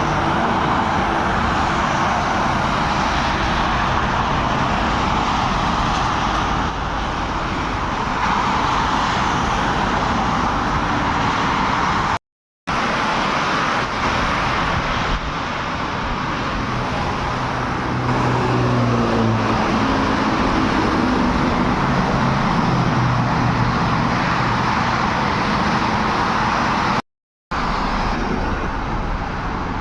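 Road traffic with heavy trucks: steady tyre and engine rush, with a truck's engine hum coming through about two-thirds of the way in. The sound cuts out to silence twice, briefly.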